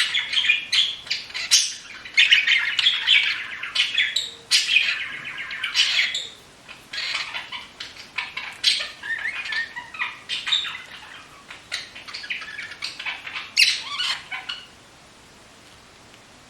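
Pet bird squeaking and chattering in a rapid run of high-pitched calls, which stops abruptly near the end.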